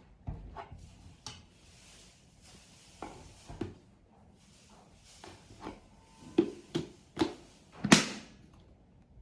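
Plastic vacuum-cleaner parts being handled: a string of sharp clicks and knocks, the loudest about eight seconds in, with faint rustling between them.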